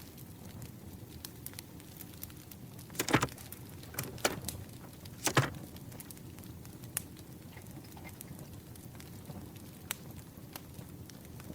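Campfire crackling steadily with scattered small pops. Three louder short scuffs or knocks come about three, four and five seconds in.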